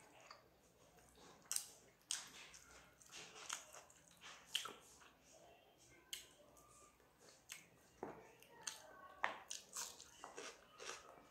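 Faint chewing of a hand-eaten meal of rice and papaya fritters, with many short, sharp mouth clicks at irregular intervals.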